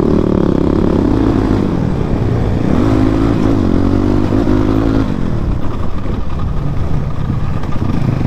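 Motorcycle engine running under way on a rough dirt track, its note rising and falling with the throttle.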